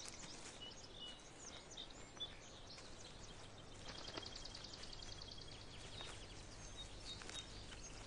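Faint bird chirps and short high calls over a quiet outdoor background, with a fast trill about halfway through.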